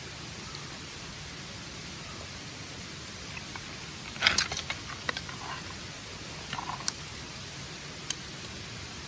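Steady hiss of outdoor background noise, with a quick cluster of sharp clicks and knocks about four seconds in and a few single clicks later, like camp gear being handled.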